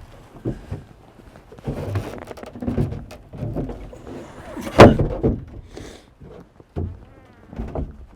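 Irregular knocks, thunks and scrapes of a plywood-and-PVC truck-bed platform being handled and shifted in the truck bed, with one sharp loud knock about five seconds in.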